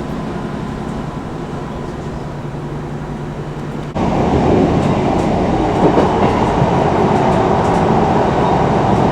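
Diesel multiple unit train running with a steady engine hum. About four seconds in, the sound cuts abruptly to a louder, rougher rumble of train running noise.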